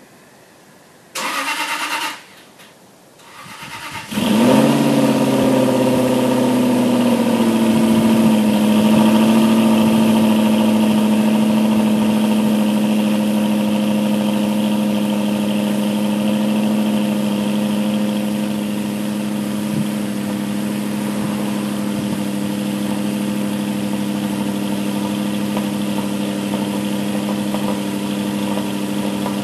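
Aston Martin V8 Vantage's V8 being cold-started after a lay-up, its oil pressure already built by cranking: the starter turns briefly about a second in, then cranks again and the engine catches about four seconds in, revs up, and settles into a steady idle.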